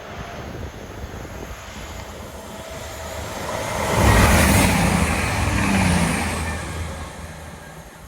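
Diesel passenger train passing at speed: engine note and rushing wheel and air noise build up, are loudest from about four to six seconds in, then fade away as it recedes.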